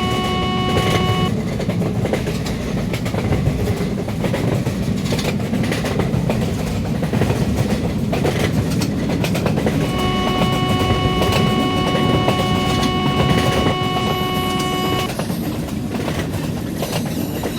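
Long express train passing at high speed, a loud continuous rumble with wheels clattering over rail joints. The locomotive's horn sounds briefly at the start and again for about five seconds in the second half.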